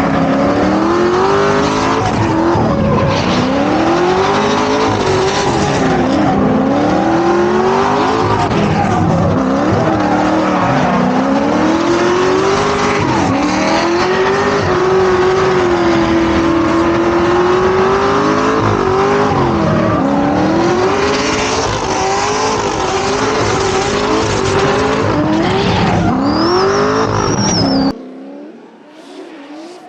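Drift car engine revving up and down hard, with a steady tyre squeal under it, as the car drifts. It cuts off suddenly about two seconds before the end, leaving quieter background sound.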